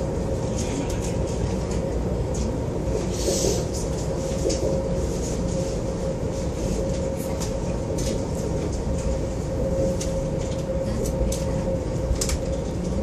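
High-speed passenger train running, heard from inside the carriage: a steady rumble with a faint steady whine and scattered light ticks.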